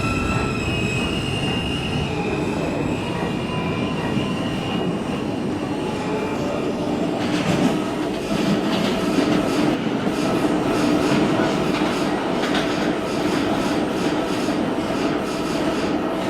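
R160A New York City subway train running between stations: steady rumble with squealing wheels and rail clacks. Thin high tones over the rumble in the first few seconds give way to denser clatter from about seven seconds in.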